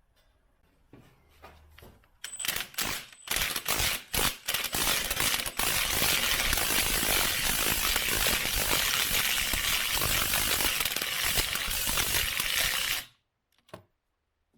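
Impact wrench hammering on a bolt, first in several short trigger bursts, then in one long run of about seven seconds that stops abruptly.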